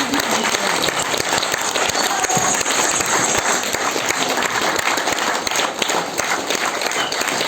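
Audience applauding: many people clapping at once in a dense, steady stream.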